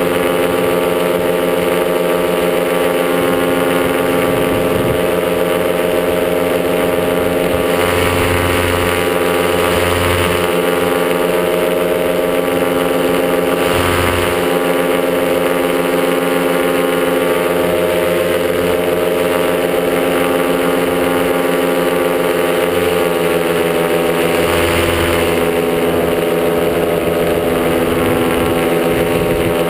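Top80 paramotor's single-cylinder two-stroke engine running steadily at constant throttle, its pitch easing down slightly about two-thirds of the way through. Wind buffets the microphone in a few short gusts.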